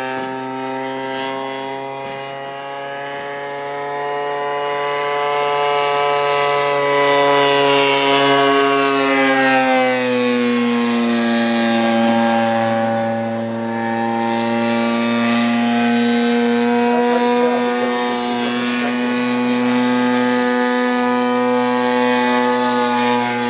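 Large radio-controlled model airplane's engine and propeller droning in flight. The pitch sinks about ten seconds in and then holds steady at a lower note.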